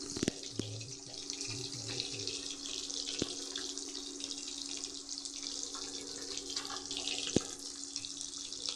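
Fish frying in hot oil, a steady sizzle with a few sharp pops and crackles.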